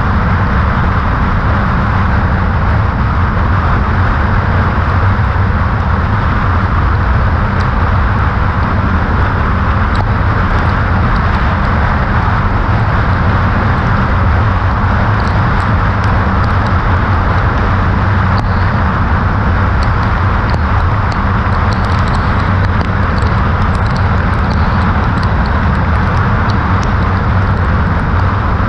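Kawasaki Ninja 400 motorcycle cruising at a steady pace: wind rushing over the microphone, with the engine and road noise underneath and no change in speed.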